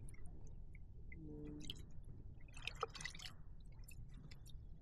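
Faint water lapping and dripping around kayaks, with scattered small clicks and drips. There is one short low hum about a second in.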